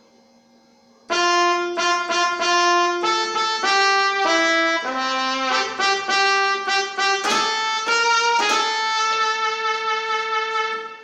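Solo trumpet playing a short melody of separate notes, starting about a second in, with some quick repeated notes and a long held final note.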